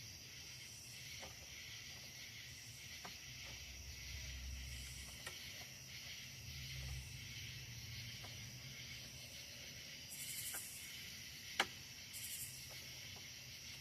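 Faint steady hiss with a few soft clicks and one sharp click about three-quarters in: handling of a cordless electric lawnmower as its safety key is fitted, before the motor starts.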